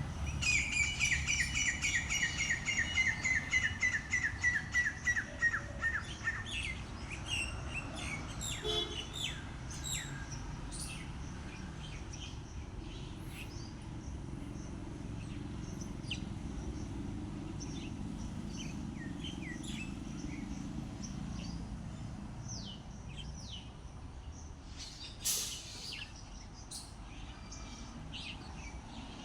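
Birds singing outdoors: one bird gives a long run of quick repeated notes, about four a second, that slowly falls in pitch over the first six seconds, then scattered short chirps from birds follow over a steady low background noise. A brief burst of noise comes near the end.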